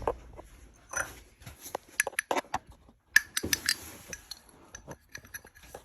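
Scattered light clinks and clicks, a run of short sharp taps of small hard objects being handled.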